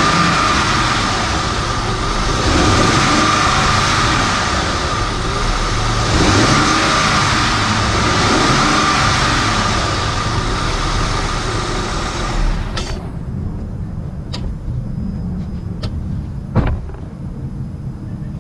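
Honda Pilot's V6 engine running with a steady high-pitched whine over it. About thirteen seconds in, the whine and the higher engine noise stop suddenly, leaving a low rumble and a few sharp clicks.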